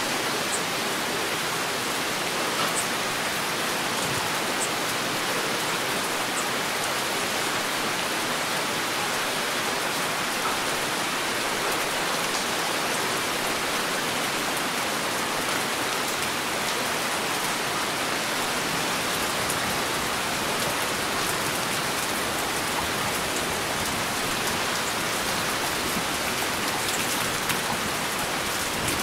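Heavy rain falling steadily, a dense even hiss of drops with a few sharper drop ticks here and there.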